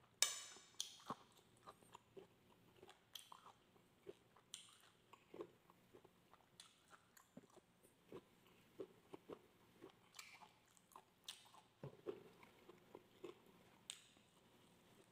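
Chewing and mouth smacks of a person eating barbecued meat and rice: irregular soft wet clicks, with one sharper smack just after the start.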